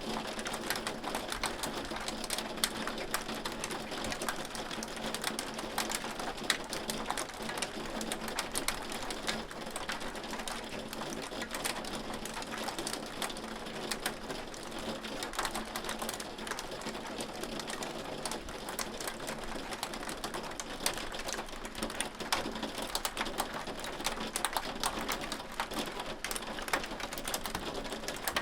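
Hail pelting a hard surface: a dense, steady patter of sharp ticks over a hiss of falling ice and rain.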